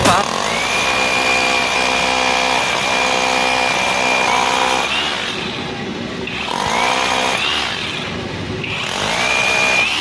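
Handheld electric power tool motor triggered three times: each time it spins up to a steady high whine, holds briefly, then winds down.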